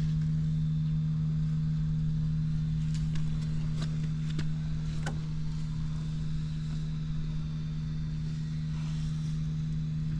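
Honda XL250S's air-cooled single-cylinder four-stroke engine running at steady, held revs without abnormal noise, with a few faint clicks around the middle.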